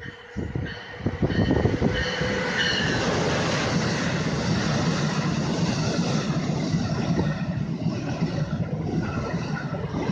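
Amtrak Acela Express high-speed trainset passing close by: a steady rumble of wheels and rushing air that swells over the first second or two and then holds. A faint high whine sits over it for the first few seconds.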